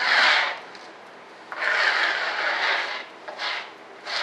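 Rubbing, scraping strokes of thick urethane primer being worked over a rough model surface to fill pinholes: a short stroke, then a longer one lasting over a second, then two short ones.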